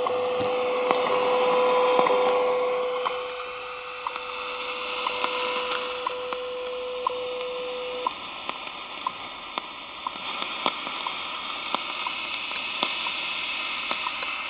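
Sony ICF-SW55 shortwave radio receiver playing through its speaker: a hiss of shortwave static with a steady tone that stops about halfway through, and short ticks about once a second.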